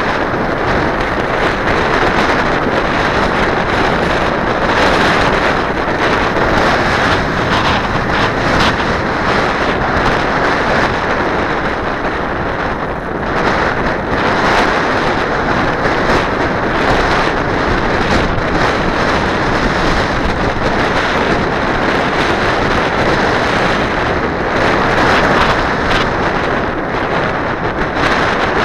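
Strong wind buffeting the microphone: a loud, even noise that covers everything else.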